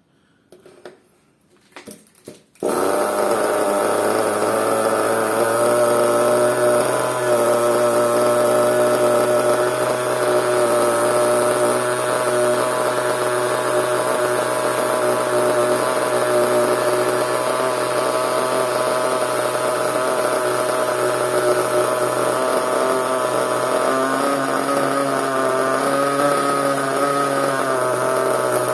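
Small nitro (glow-fuel) engine of a CEN RC monster truck catching suddenly about two and a half seconds in, after a few faint clicks, then running steadily at idle, its pitch wavering slightly near the end.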